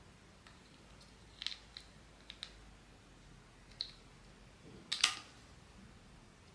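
A few light clicks and taps from handling a blind box and its small plastic figurine, irregularly spaced, with the loudest click about five seconds in.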